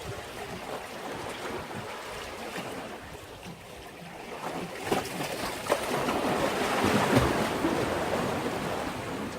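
Sea waves washing against a breakwater, with small splashes throughout. One wave surges up about halfway through, is loudest near the end, and then ebbs.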